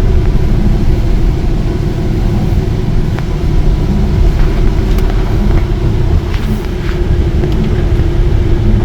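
Steady low rumble of engine and road noise inside a moving tour vehicle, with a constant hum.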